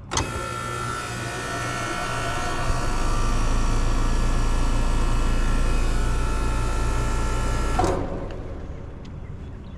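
Outdoor air-conditioning condenser unit starting up: a sudden start of fan rush and compressor hum that builds over the first few seconds and then runs steadily. It drops off sharply about 8 seconds in, leaving a lower hum. No odd startup noise stands out.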